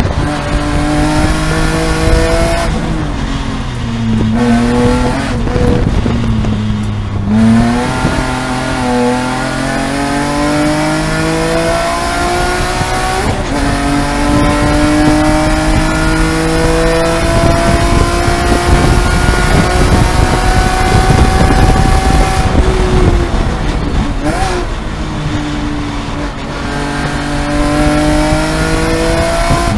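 BMW E46 M3's S54 3.2-litre straight-six race engine heard from inside the cabin, under hard track driving. The engine pitch falls and climbs several times through the first twelve seconds as it brakes and shifts. It then pulls in one long, slowly rising run through the middle before dropping off and climbing again near the end.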